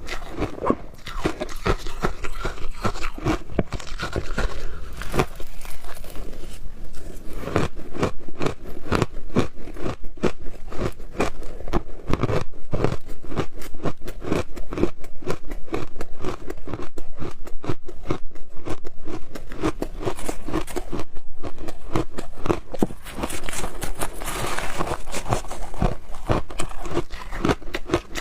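Frozen powdery ice being bitten and chewed close to the microphone: a dense, continuous run of sharp crunches, several a second. The crunching turns brighter and hissier a little before the end.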